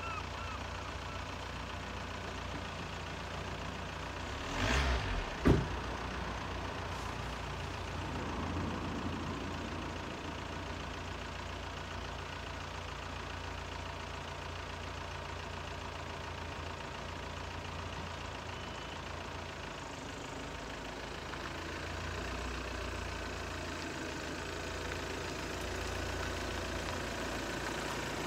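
Volkswagen Passat B6 engine idling steadily. About five seconds in, a brief rustle and then a car door shutting with a sharp thud, the loudest sound.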